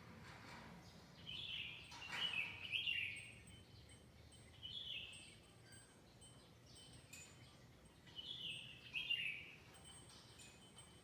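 A songbird singing short, bright phrases, a burst every two to three seconds, over faint high thin notes from another bird and a low background hum.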